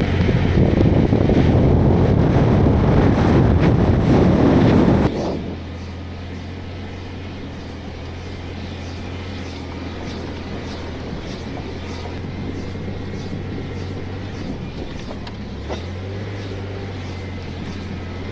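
Blazer 4x4 driving on a snowy road. For about five seconds there is a loud rumble of wind and road noise, which cuts off abruptly to a quieter, steady engine drone with a low hum.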